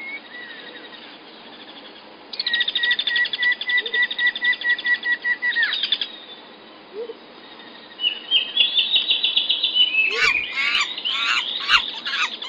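Songbirds singing in a forest: a long, even, rapid trill, then a second higher trill, then a run of loud, quick, down-sweeping chirps, over faint steady background noise.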